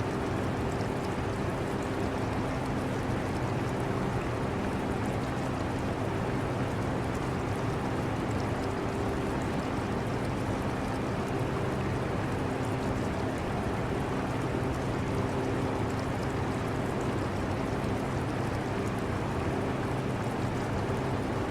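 Air conditioner running with a steady hum, mixed with the trickle and bubbling of aquarium water.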